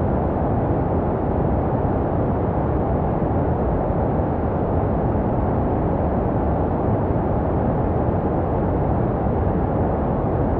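Steady, unbroken white noise for soothing a baby to sleep, dull and deep with its strength in the low end and little treble. It is made to resemble the sound a baby hears inside the womb.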